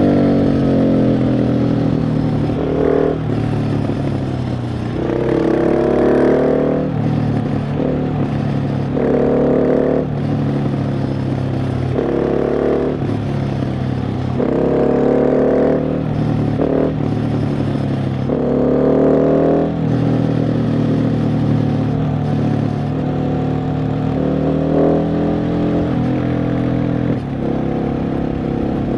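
KTM 690 SMC R's single-cylinder engine under way, its pitch rising as it accelerates and dropping back between pulls, again and again.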